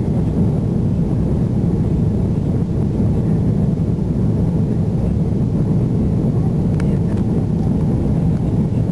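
Inside the cabin of an Airbus A330: a steady, deep rumble of the jet engines and rushing airflow, the plane under power after takeoff.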